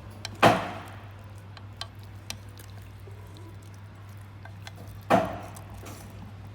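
Two heavy thumps, about half a second in and again near the five-second mark, with a few light clicks between them over a steady low hum.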